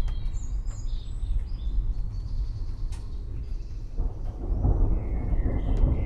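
Forest ambience: birds chirping over a low rumble of distant thunder, with a rushing rain-like hiss swelling about four seconds in.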